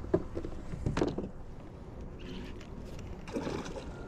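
River water sloshing and splashing close to the microphone, with a brief louder splash or knock about a second in and another near the end.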